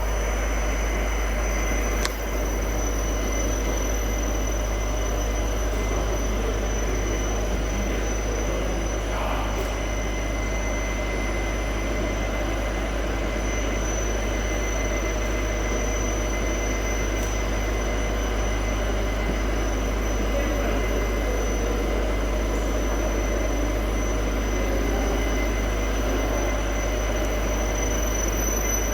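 60 mm LDPE extrusion machine running steadily: a continuous low hum with a thin, steady high whine over a mechanical din.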